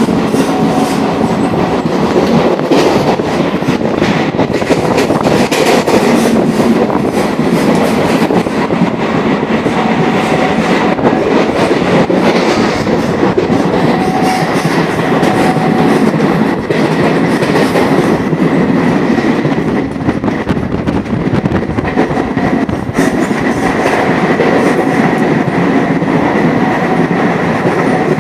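DEMU passenger train running at speed: a loud, steady rumble of wheels on the rails, with frequent clicks over the rail joints and a faint steady whine that comes and goes.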